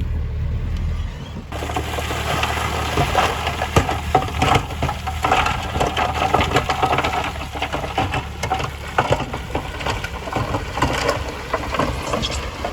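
Heavy earthmoving machine working gravel: a steady low engine hum, then from about a second and a half in, dense crunching and clattering of gravel and stones over the running engine.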